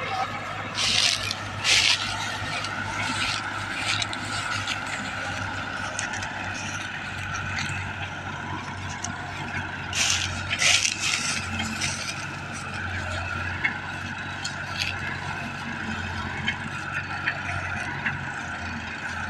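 Massey Ferguson 385 tractor's diesel engine running steadily. Four short, loud hissing scrapes cut in over it, two about one and two seconds in and two around ten to eleven seconds in.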